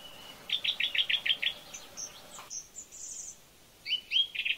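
A songbird singing: a quick run of about seven even notes, then higher, shorter chirps, then a few rising slurred whistles near the end.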